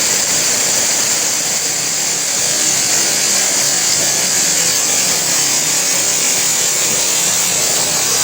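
Steady rush of falling water from an indoor waterfall, an unbroken hiss strongest in the high range.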